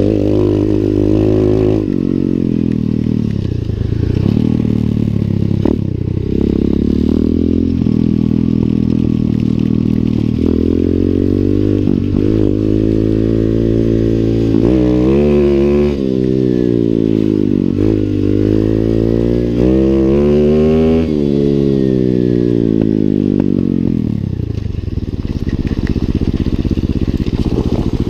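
Lifan 125 cc pit bike's single-cylinder four-stroke engine being ridden, revving up and easing off again and again, its pitch rising and falling with the throttle.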